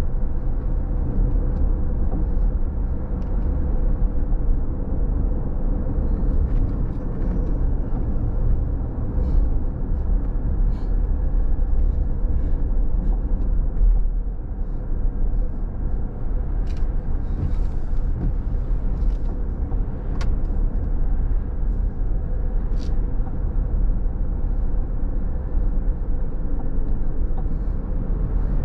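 Car driving on a rain-wet road: a steady low rumble of engine and tyres, with a faint steady hum and scattered light ticks.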